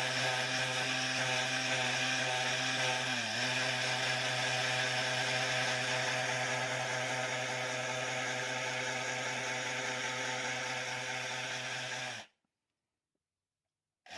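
Electric power tool running steadily at one pitch while sanding a basswood razor handle to shape its arch and blade gap. It cuts off to dead silence about twelve seconds in and comes back just at the end.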